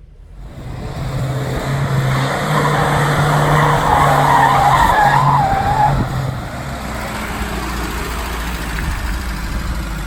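A car engine held at high revs while the tyres spin and squeal in a burnout. It eases off about six seconds in to a steadier, quieter engine note.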